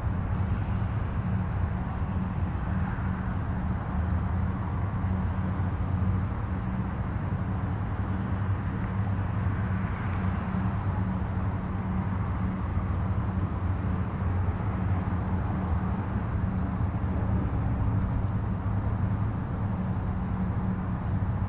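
Distant highway traffic: a steady low rumble of tyres and engines, with passing vehicles swelling and fading about three and ten seconds in.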